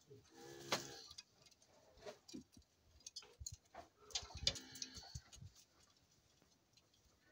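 Penned decorative poultry giving two short pitched calls, one about half a second in and one about four seconds in, among scattered light clicks and taps.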